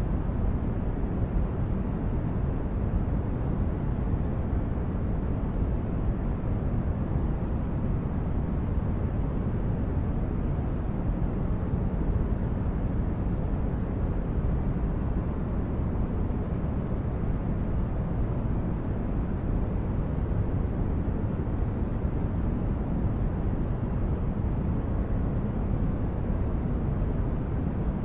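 Steady low rumbling noise, like a starship's engine hum heard from inside: a deep, even brown-noise drone with no distinct tones or events.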